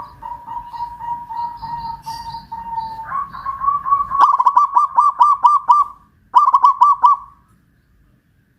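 Zebra dove (perkutut) cooing: a soft rolling trill for about three seconds, then a loud run of quick staccato coos, a short break, and a few more before it stops.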